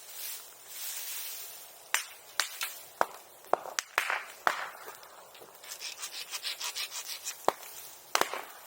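Bamboo burning in a bonfire: sharp pops and cracks as the hollow stems burst, with bursts of high hissing and a fluttering hiss of escaping steam in the middle.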